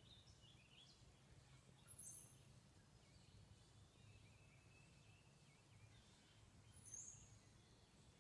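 Near silence: faint outdoor background with a few faint bird chirps, two short high ones about two seconds in and near the end.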